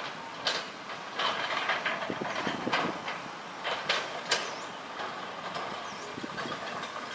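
Excavator at work: irregular metallic clanks and rattles over steady machine noise, the sharpest clanks a little after the middle.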